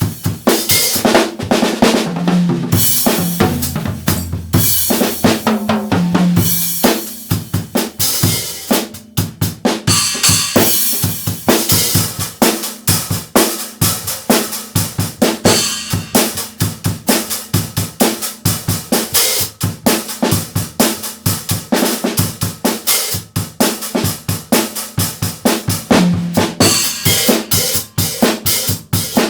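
Yamaha acoustic drum kit played solo: bass drum, snare with rimshots, hi-hat and cymbals in a fast, busy groove with fills. It has ringing drum tones in the first few seconds and denser, quicker strokes after that.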